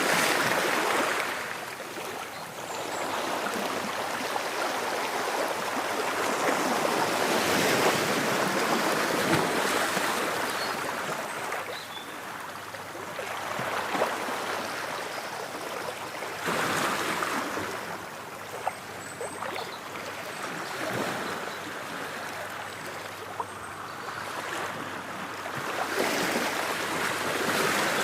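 Ocean waves washing ashore, the surf swelling and fading every several seconds as each wave breaks and draws back.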